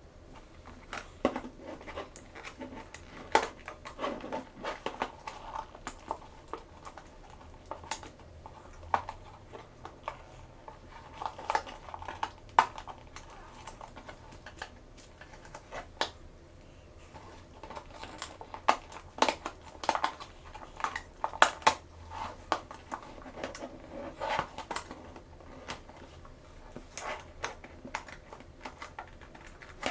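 Hands opening and handling small plastic toys and their packaging: irregular sharp clicks and taps of hard plastic, with softer rustling between them.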